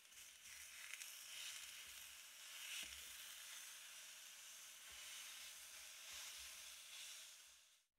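Faint, steady sizzle of food frying in a pan on a portable gas camping stove, with a few small crackles.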